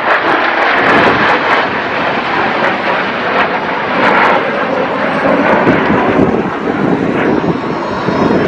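Fixed-wing aircraft flying past, its engines a loud, steady rush of noise with sharp crackles in the first few seconds.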